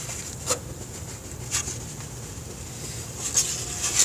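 Handling noise as the plastic fairing or the phone filming it is moved and turned: four short sharp clicks and rustles over a low steady hum.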